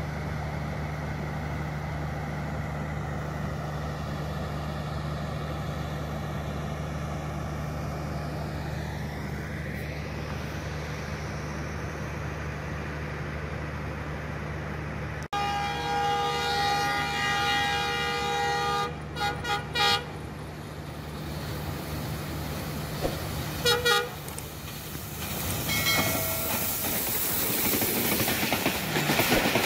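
Steady low hum of an idling diesel train engine. About halfway in, a diesel locomotive's horn gives a long blast, then several short toots. Near the end the rising clatter of a passenger train's wheels on the rails as it passes close by.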